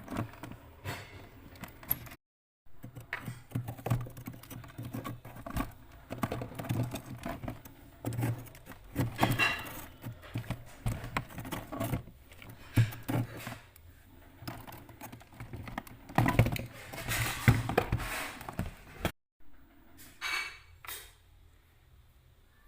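Irregular clicking, tapping and knocking of hands working on plastic parts and packed ice inside an iced-up refrigerator freezer, over a steady low hum. The sound cuts out abruptly twice, once about two seconds in and again near the end.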